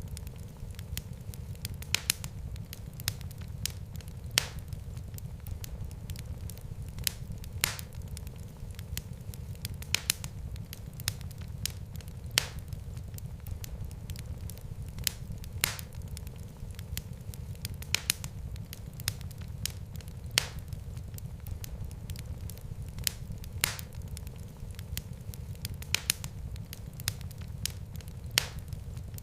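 Wood fire burning in a fireplace: a steady low rumble of flames with irregular crackles and sharp pops, a few every second.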